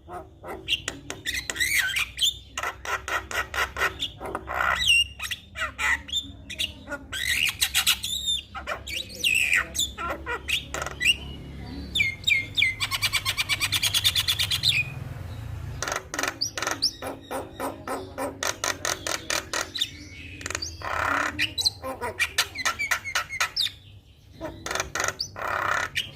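Javan myna singing a fast, varied chattering song full of squawks, whistles and mimicked phrases, with a rapid buzzy rattle about halfway through.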